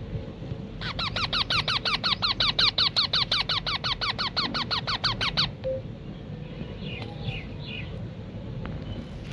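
Baby rose-ringed (ringneck) parakeet giving a rapid, even run of squeaky food-begging calls, about eight a second for some four and a half seconds, as it is hand-fed. A few fainter chirps follow near the end.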